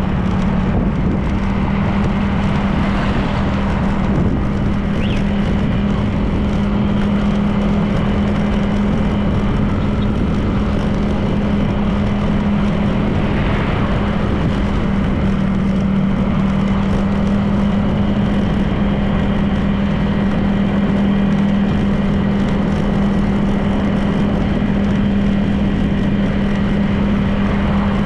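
Honda PCX 160 scooter's single-cylinder engine running at a steady cruising speed, a constant hum holding one pitch, over wind and road noise.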